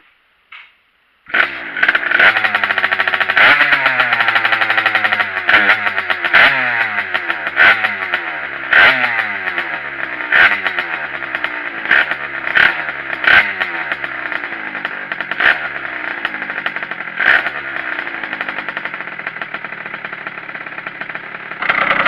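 Two-stroke enduro motorcycle engine with an 86 cc kit, open air filter and Voca big-bore expansion chamber, starting about a second in and revving up and down over and over, with sharp cracks roughly every second.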